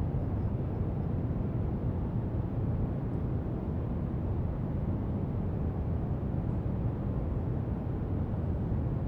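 Steady brown noise: an even, deep rushing hiss that never changes, with only a few faint, light marker scratches now and then.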